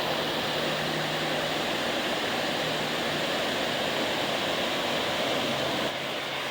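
Waterfall, water rushing steadily. Near the end it drops suddenly to a quieter rush.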